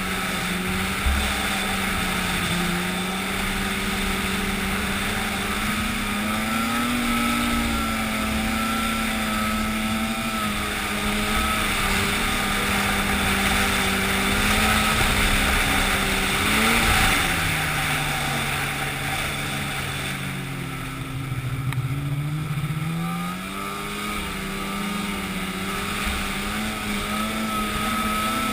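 An engine running steadily, its pitch wavering, dropping lower for a few seconds past the middle and then rising back.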